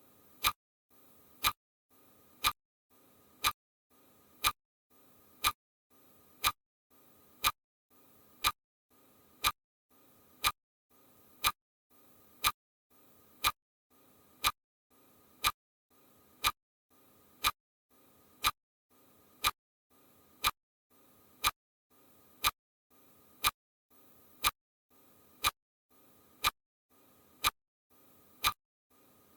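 Steady ticking, one sharp tick about every second.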